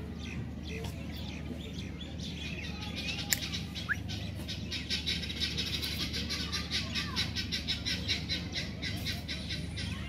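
Birds chirping in a rapid, dense run of short high chirps that builds from about three seconds in, over a steady low hum.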